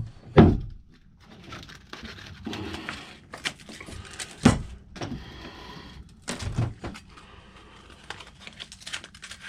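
Steel axe head being sanded by hand with sandpaper: irregular scratchy strokes, with a few sharp knocks, the loudest just after the start and about halfway through.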